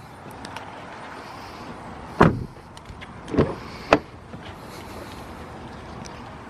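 Three short clunks from a car's interior fittings being handled, the loudest about two seconds in and two more about a second and a half later, over a steady outdoor background hum.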